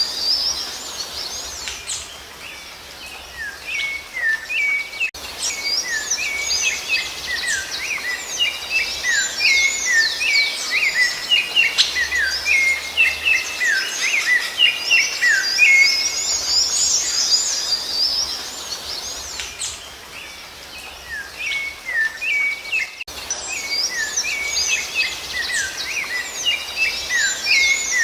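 Songbirds singing: a dense run of quick chirps and slurred whistled notes, easing off twice in short lulls, a few seconds in and again about two-thirds of the way through.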